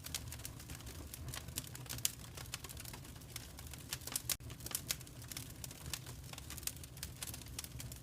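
Wood fire in a fireplace crackling, with irregular pops and snaps over a steady low rumble. A sharper pop comes about two seconds in and another about four seconds in.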